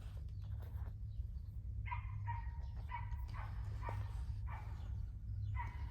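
A small dog yapping in a quick run of short barks, starting about two seconds in, over a low steady hum.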